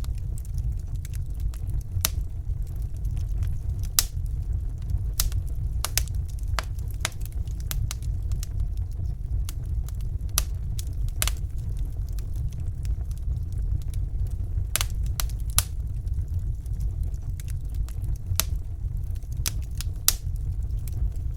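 Fire burning in a fireplace: a steady low rumble of flames with sharp crackles and pops at irregular intervals, roughly one every second or two.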